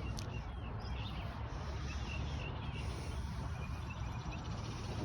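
Low rumble of wind or handling noise on the microphone, with a few faint bird chirps.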